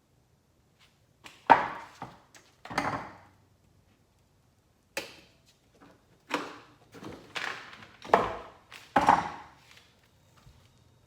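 A series of about eight knocks or thuds at irregular intervals, each dying away with a short ringing tail.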